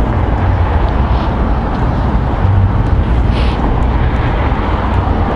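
A steady, loud low rumble of noise, with a brief higher hiss about three and a half seconds in.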